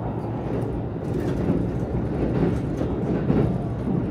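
Steady running noise of the Kintetsu Aoniyoshi express train heard from inside the passenger car: wheels on rails and the car's motion, with faint light ticks.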